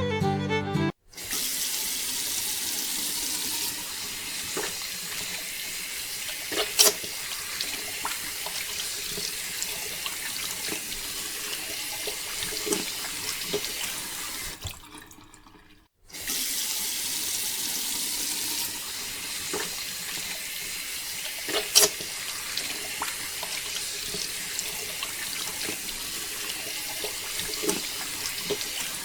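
Water pouring in a steady stream, with a couple of small knocks. It fades out about halfway through, stops for a moment, then starts again and runs the same way.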